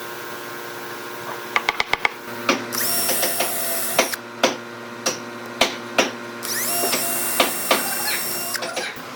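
Workshop tool noise: a quick run of clicks, then two stretches of high mechanical whirring broken by sharp knocks.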